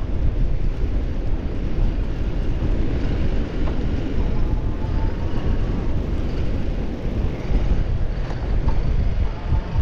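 Wind buffeting the microphone: a continuous, irregular low rumble.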